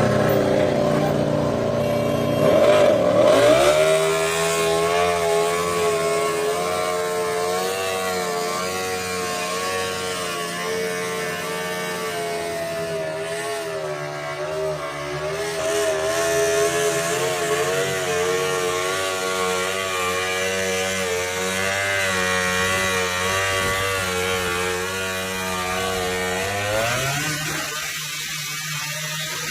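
MotoGP racing motorcycle engine running at high revs, its pitch wavering. It dips and climbs again about three seconds in, and rises sharply near the end before the sound thins out.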